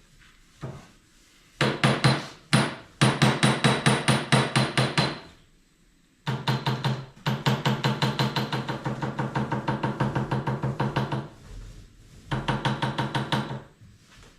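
Power polishing tool working on the chest's metal tins, running in bursts with a rapid rhythmic clatter over a steady motor hum, stopping and restarting twice.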